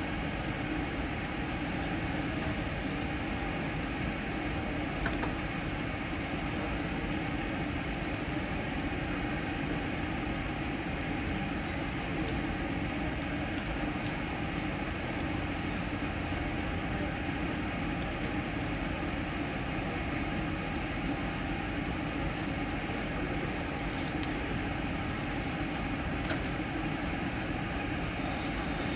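Tabletop yakiniku grill: a steady sizzle and hum, with a few faint crackles.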